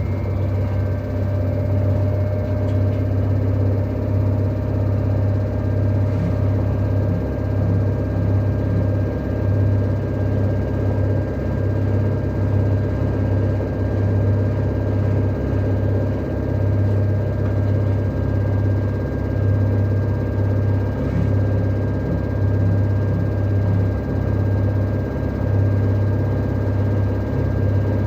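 LG direct-drive washing machine on its spin cycle, running loudly: a strong low hum that throbs unevenly and a steady high whine. This is the extreme noise during the spin that marks the machine's spin problem.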